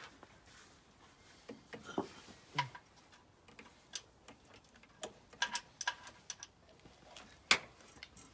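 Scattered, irregular sharp clicks and light knocks, some with a short ringing tone, the loudest about seven and a half seconds in.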